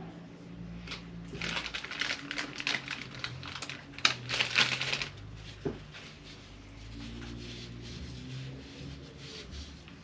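Small parts and hand tools being handled during work on an RC car's pinion and motor mount: a run of clicks, rattles and scraping about one and a half to five seconds in, then one sharp click about a second later.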